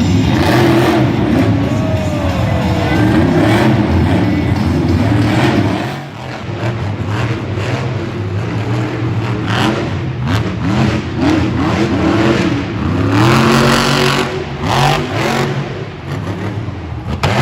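Monster truck engines revving, rising and falling in pitch, with music playing underneath. The sound changes abruptly about six seconds in, like a jump to another clip.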